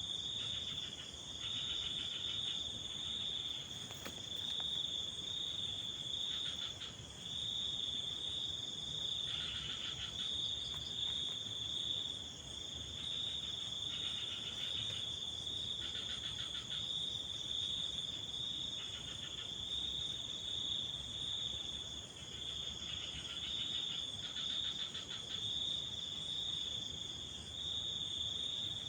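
Crickets trilling steadily and high, with shorter pulsed calls of about a second coming in every few seconds over the top.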